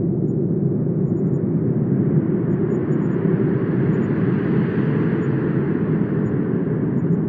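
Wind blowing steadily with a deep rumble; a gust swells in the middle and eases off again.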